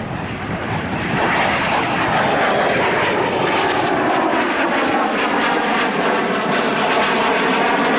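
Gloster Meteor NF11 night fighter's twin jet engines in a flypast. The roar grows louder over the first second, then holds, with its whine slowly falling in pitch as the jet passes.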